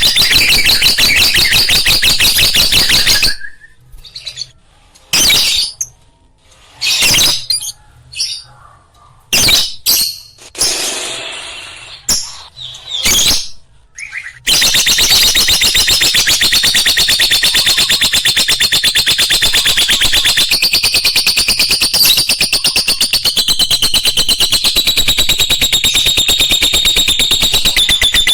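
Lovebirds chattering: a dense, continuous run of rapid high chirps. It breaks off about three seconds in, leaving only short scattered sounds with quiet gaps, and picks up again about halfway through.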